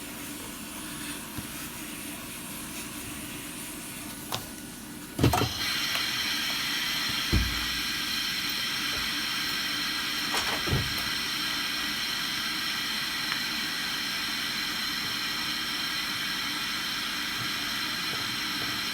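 Steady hiss of an air blower that gets louder and stronger after a couple of sharp knocks about five seconds in, with two more knocks a few seconds later.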